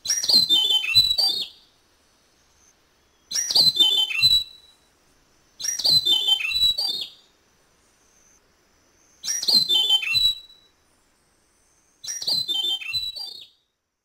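Black-headed nightingale-thrush (Catharus mexicanus) singing: five short song phrases, each about a second long, a quick run of high whistled notes stepping down in pitch, with pauses of one to two seconds between them.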